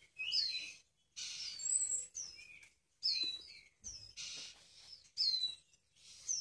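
Songbirds chirping: short, high, downward-sliding chirps, often two or three close together, repeated about once a second.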